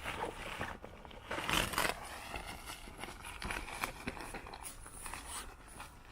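Rustling and crinkling handling noise with a few light knocks, loudest a little over a second in.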